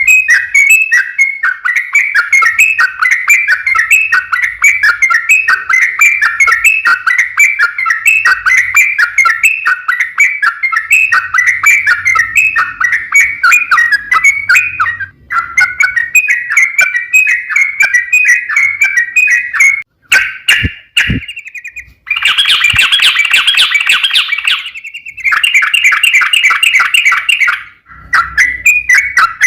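Yellow-vented bulbul (trucukan) singing a long, fast, rolling chatter of bubbly notes. About twenty seconds in there are two sharp clicks, followed by two harsher, buzzier bursts of song.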